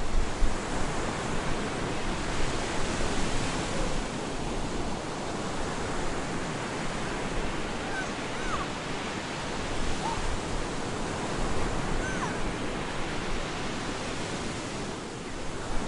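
Storm surf on a beach: a continuous rush of breaking waves and wash that swells and eases a little but never stops. A few faint short chirps sound near the middle.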